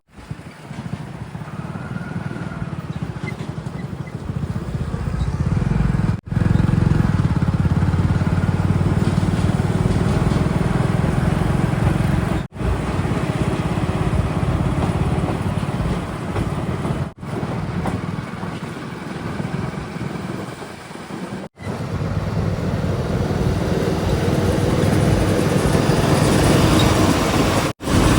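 Diesel engines of heavy earthmoving vehicles running, a steady low drone, in several short clips joined by abrupt cuts.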